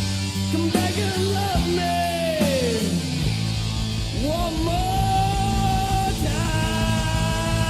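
A late-1980s heavy metal recording playing: a band of distorted guitars, bass and drums, with a lead line that bends and swoops down in pitch, then holds long notes.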